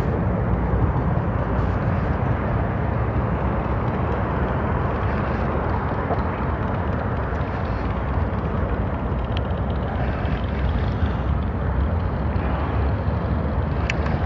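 Steady low rumbling noise with a hiss above it, even and unbroken throughout, with a couple of faint ticks near the end.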